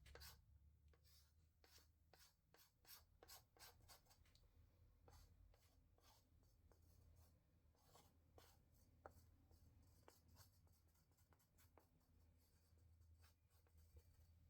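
Near silence, with faint scratching and ticking of a tool drawing through wet epoxy resin on a canvas.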